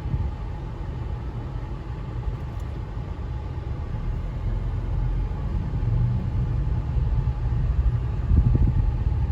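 Steady low rumble of a car's engine and road noise heard from inside the cabin, growing a little louder over the last few seconds.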